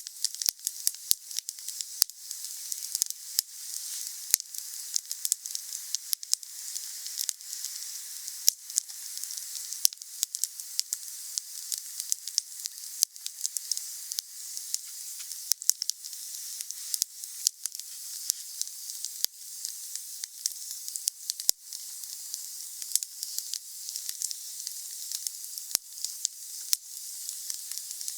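Wood campfire burning: a steady hiss with many sharp, irregular crackles and pops from the burning wood.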